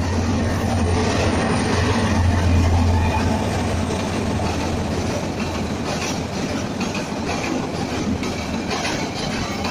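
Passenger train passing close: the diesel locomotive's low engine drone is loudest two to three seconds in, then the coaches roll by with their wheels clattering over the rail joints.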